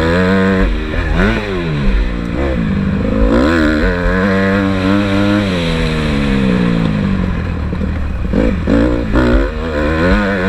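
Honda CRF150R motocross bike's single-cylinder four-stroke engine under load on the track, revving up and down. The pitch climbs and holds for a couple of seconds, falls away over the next few, then comes several quick blips of the throttle near the end.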